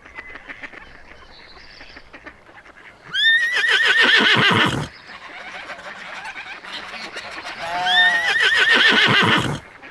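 Two loud warbling animal-like calls, each about a second and a half long, the first about three seconds in and the second near the end.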